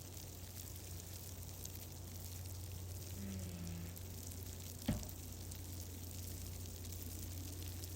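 Wood fire crackling in a fireplace: fine crackles over a steady low hum, with one sharp, louder pop about five seconds in.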